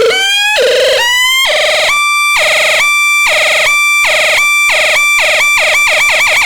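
Synthesized electronic tones, siren-like. First come short rising pitch sweeps about twice a second, then from about two seconds in a steady pitched beep that pulses faster and faster.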